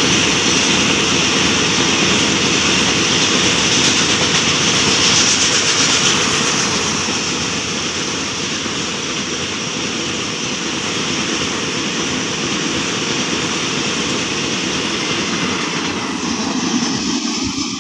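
Container wagons of a long freight train rolling past on the track: a steady rumble and hiss of steel wheels on rails, a little quieter after about six seconds as the train draws away.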